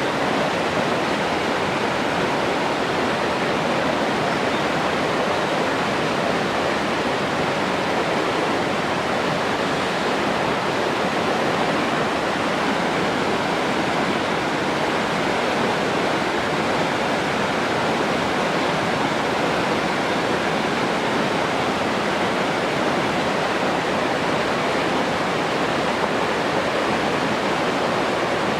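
Steady rushing of falling or running water, an even unbroken roar with no changes.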